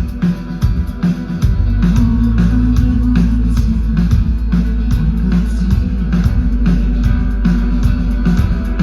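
Rock band playing: guitar over bass and drums with a steady beat, the low bass end coming in fuller about a second and a half in.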